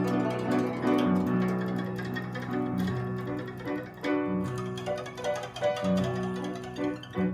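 Guzheng (Chinese plucked zither) played solo: fast runs of plucked notes over repeated low bass notes, with a brief dip about four seconds in.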